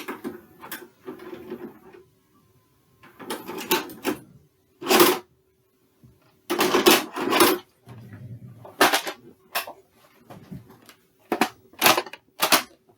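An irregular series of about a dozen sharp clicks and clunks of objects being handled, some single and some in short clattering runs, with silent gaps between them. A faint steady hum sits underneath.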